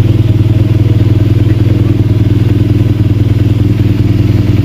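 BMW R nineT's air/oil-cooled boxer twin running steadily at idle, with an even, unchanging engine beat.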